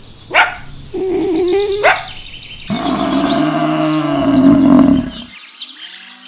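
A dog barks once, then gives a short, high whining howl. After that, a different animal gives a long, low call lasting about two seconds.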